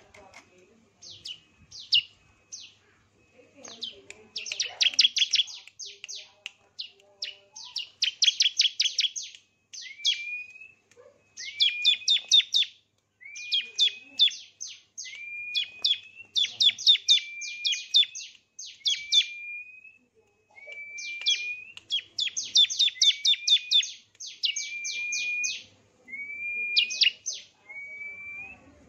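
A songbird singing a varied song: fast clusters of sharp, high, downward-sweeping chirps alternating with short rising whistled notes, with brief pauses now and then.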